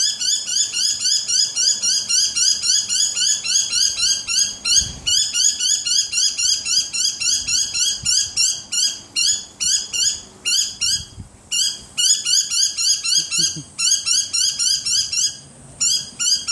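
Domestic cat chattering at birds: a rapid run of short, high, twittering calls, about five a second, with a few brief pauses, the excited hunting chatter of a cat watching prey it cannot reach.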